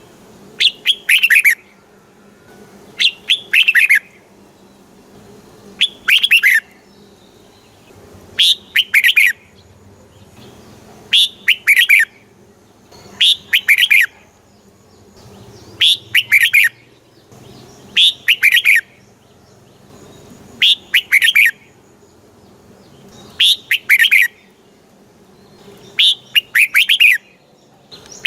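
Red-whiskered bulbul singing the same short, quick, warbling phrase over and over: eleven phrases, each about a second long and about two and a half seconds apart.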